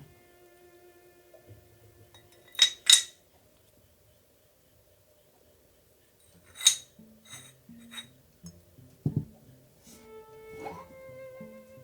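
Sharp clicks and clinks of small parts of a model engine kit being handled during assembly: two close together, then a run of lighter ones a few seconds later. Soft background music plays at the start and comes back near the end.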